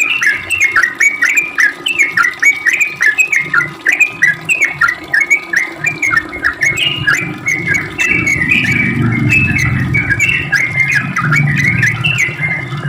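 Yellow-vented bulbul (trucuk) singing a long, unbroken run of quick short notes, several a second. A low hum sits underneath and grows louder about seven seconds in.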